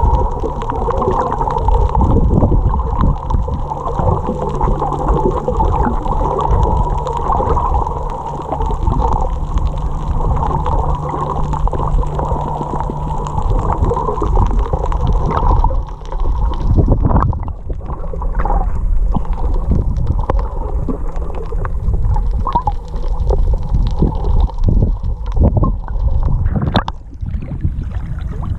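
Water heard through the microphone as the camera moves in and out of the water: muffled gurgling and splashing over a steady engine hum, which fades about halfway through. Irregular splashes and knocks follow.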